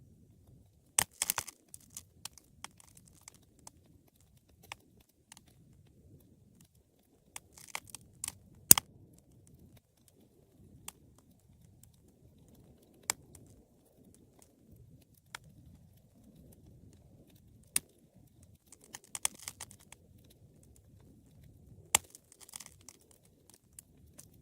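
Wood fire burning: a soft low rush of flame under sharp crackles and single pops at irregular intervals, with short bursts of dense crackling about a second in, around eight seconds and near twenty seconds. The loudest pop comes just before the nine-second mark.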